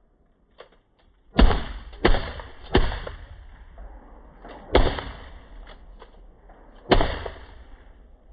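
Five shotgun blasts: three in quick succession starting about a second and a half in, then two more about two seconds apart, each trailing off in a short echo.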